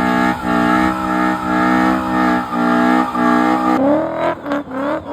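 Car engine held at high revs with a brief dip about once a second, then revs climbing steeply in several short rising runs with quick breaks between them as the car accelerates away hard.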